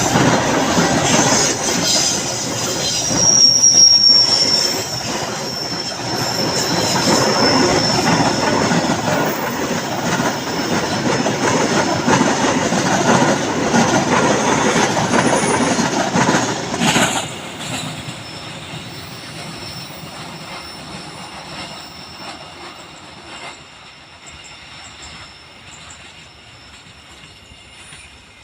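Train cars rolling past on a curve of track, wheels squealing high in the first several seconds over the loud running rumble. The noise drops sharply a little past halfway as the last car goes by, then the train fades into the distance.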